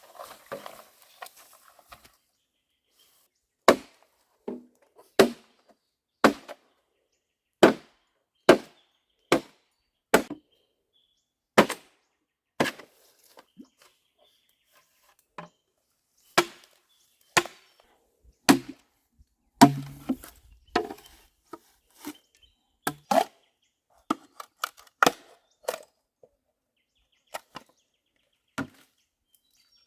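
Repeated chopping: a blade strikes down into something about two dozen times at an uneven pace, roughly one blow a second, a little quicker in the second half. A short rustling scrape comes before the first blow.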